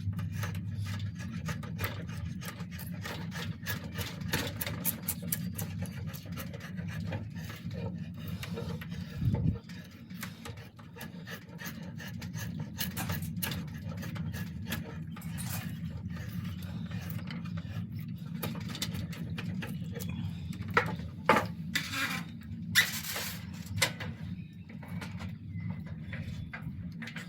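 Hand tool rasping and scraping along an oak bow limb in quick repeated strokes as the limb is thinned and tapered, with a few louder knocks along the way and a steady low hum underneath.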